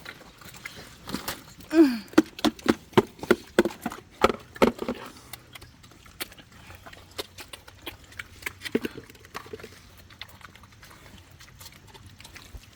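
Pigs grunting: one drawn-out, falling grunt, then a quick run of loud grunts at about three a second, followed by scattered knocks and a single grunt later on.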